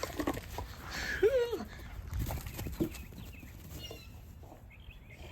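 A short animal call about a second in, rising then falling in pitch, among a few soft knocks, with faint bird chirps near the end.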